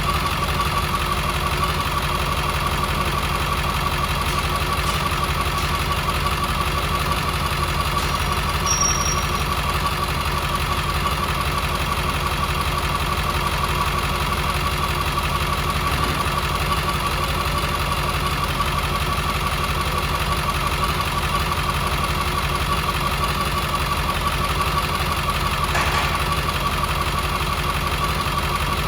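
International T444E V8 turbo-diesel engine idling steadily. A brief high-pitched chirp comes about nine seconds in.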